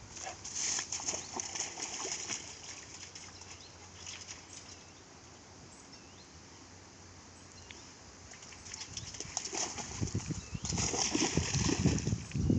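Old English Bulldog–Pit Bull mix running close by, its paws drumming and rustling on the ground in quick steps. There are two passes, one in the first few seconds and a louder one near the end with heavier thuds, and a quieter gap between.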